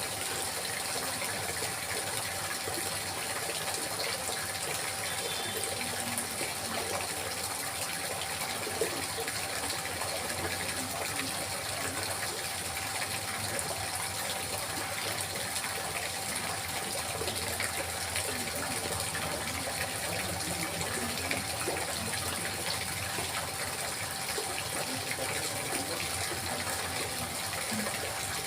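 Water babbling and trickling steadily, with small gurgles throughout.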